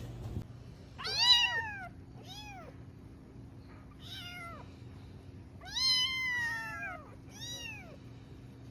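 A domestic cat meowing five times, each meow rising and then falling in pitch. The first meow is the loudest, and the fourth, about six seconds in, is the longest.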